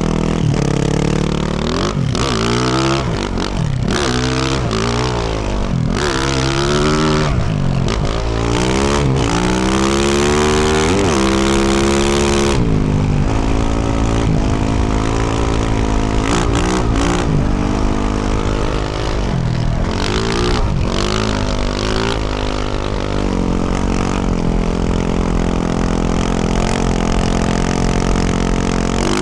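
2024 Yamaha YZ450F's 450cc single-cylinder four-stroke engine with a Yoshimura RS-12 exhaust, ridden hard with the throttle opened and closed again and again, so the pitch keeps rising and falling. A little before the middle it pulls through one long climb in pitch, then runs steadier with smaller blips.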